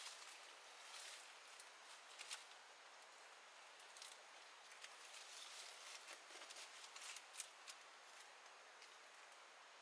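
Faint, irregular small clicks and rustles over a soft hiss, a few sharper clicks standing out near the start, after about two seconds and past seven seconds.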